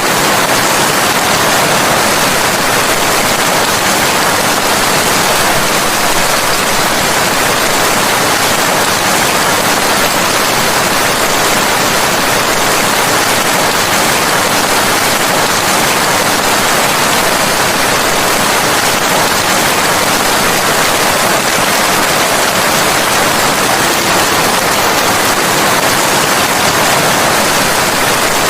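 Heavy, steady rain, an even hiss with no distinct drops or thunder standing out.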